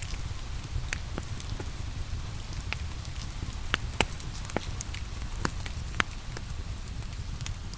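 Steady rain mixed with a crackling log fire: a constant low rush with irregular sharp pops and ticks scattered through it.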